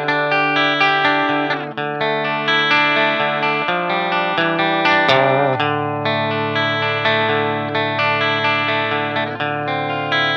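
Guitar played through effects, with regularly strummed chords that ring on and change every second or two.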